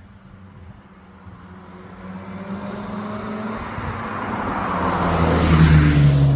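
Mazda RX-7 FC3S rotary engine through a FEED Sonic-R aftermarket exhaust, approaching and driving past. Its exhaust note grows steadily louder and peaks with a rush near the end, then drops in pitch as the car passes.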